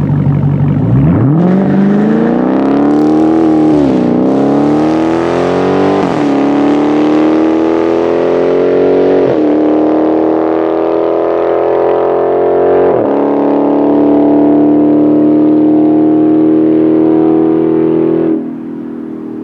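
Dodge 6.4L (392) HEMI V8 through an AWE Track Edition stainless exhaust accelerating hard, its pitch climbing through the gears with four quick upshifts, each a brief dip in pitch. The sound drops away suddenly near the end as the throttle is let off.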